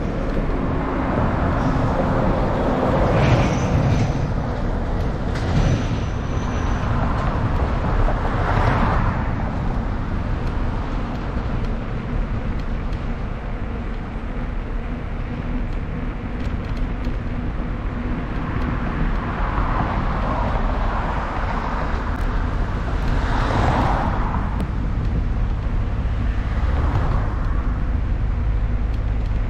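Road traffic heard from a moving bicycle: cars pass about five times, each one swelling up and fading away, over a steady low rumble.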